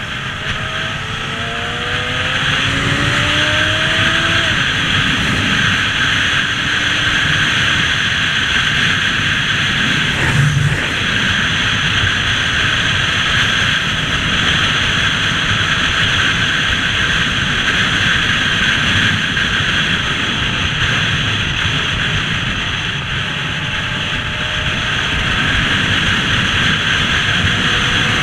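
Motorbike ride: a steady rush of wind and road noise over the engine, with the engine's pitch rising as it accelerates in the first few seconds and again near the end. A single short knock about ten seconds in.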